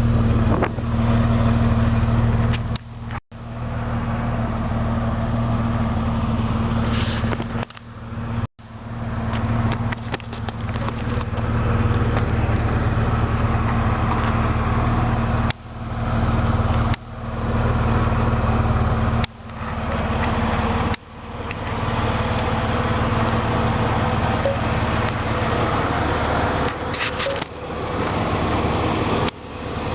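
A 2006 Jeep Wrangler's 4.0-litre inline six idling steadily. The sound drops out sharply several times and comes straight back.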